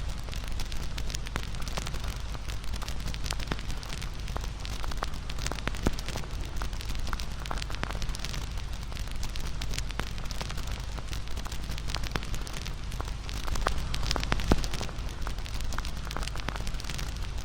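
Wood bonfire crackling: a constant run of small snaps and pops over a steady hiss and low rumble, with a couple of louder pops.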